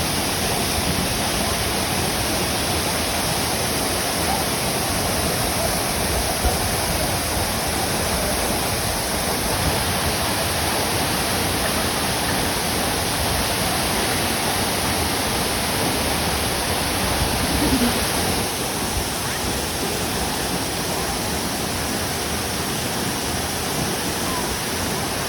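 A waterfall with a loud, steady rush of falling water.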